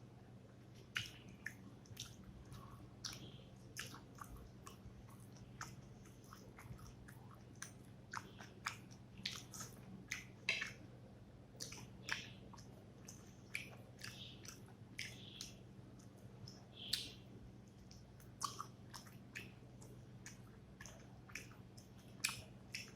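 Close-up chewing and mouth sounds of someone eating rice with fish curry: irregular wet smacks and sharp clicks, several a second, over a steady low hum.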